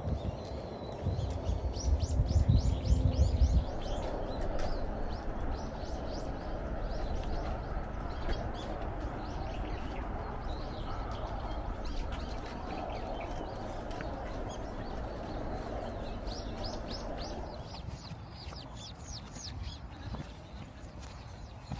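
Small songbirds chirping in quick runs of short high notes, once near the start and again near the end, over a steady outdoor hiss. A low rumble, the loudest sound, runs through the first few seconds.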